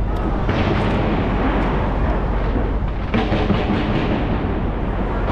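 Skyscraper fireworks display: a continuous din of many overlapping bangs and crackles from shells bursting around the tower, with fresh volleys breaking out about half a second in and again about three seconds in.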